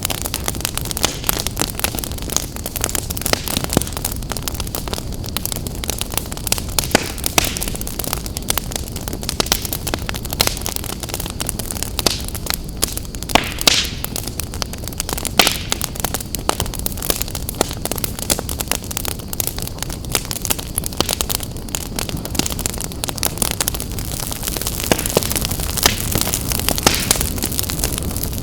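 Wood fire burning in a fireplace, crackling steadily with many small snaps and a few sharp, louder pops over a low rush of flame.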